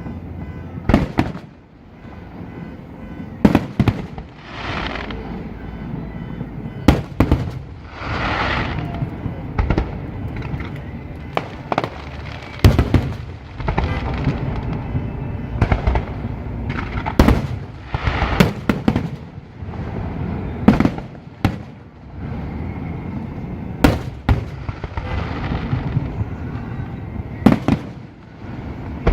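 Aerial fireworks display: loud shell bursts every few seconds, about ten in all, with rumbling echoes between them and several longer rushing, crackling swells.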